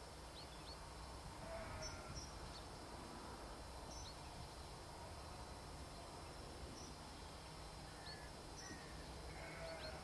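Faint outdoor ambience: a low steady rumble with scattered brief, high chirps of small birds a few seconds apart.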